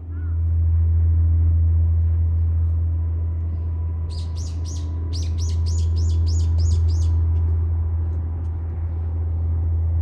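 A small bird sings a quick run of about a dozen high, evenly spaced chirps between about four and seven seconds in, over a steady low rumble.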